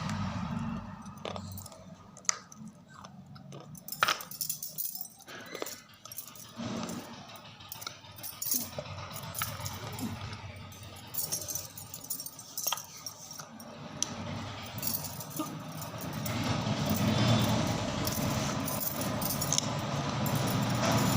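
Close-up biting and crunching of something crisp being eaten, with irregular sharp snaps and clicks. A steady low rumble builds up in the background over the last few seconds.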